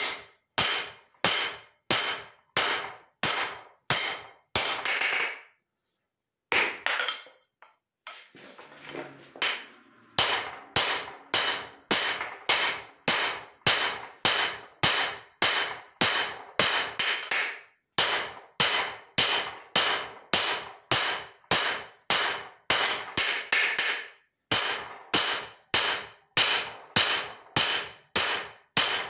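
Hand hammer striking hot leaf-spring steel on an anvil: steady blows about two a second, each with a short ring. The hammering breaks off for a moment about six seconds in, gives way to a few seconds of softer, irregular sound, then picks up again in the same rhythm.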